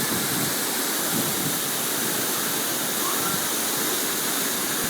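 Waterfall pouring steadily: an unbroken hiss of falling water.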